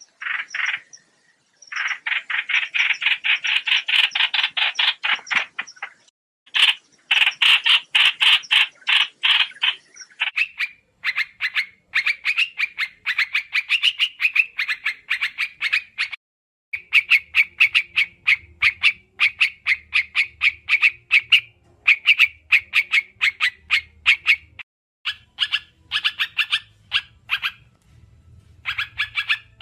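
White-eyes (trao trảo) calling in rapid runs of short, chirping notes, in bursts of a few seconds with brief pauses: a lure recording used to call white-eyes into traps.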